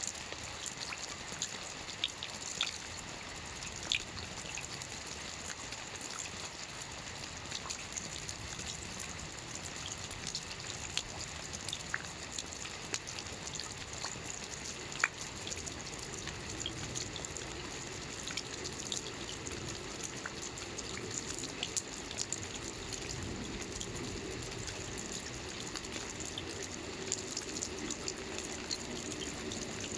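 Soft rain falling on a roof: a steady hiss with scattered individual drops ticking. From about halfway a lower, fuller rush of running water builds up beneath it.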